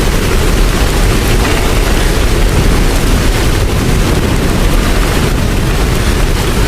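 Steady, loud rain noise with a deep low rumble underneath.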